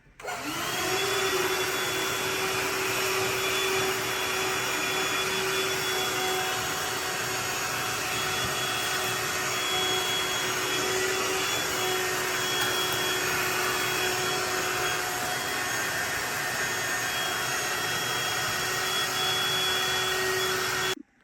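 Vacuum cleaner switched on, its motor spinning up with a rising whine over about a second, then running steadily with a constant whine before cutting off abruptly near the end.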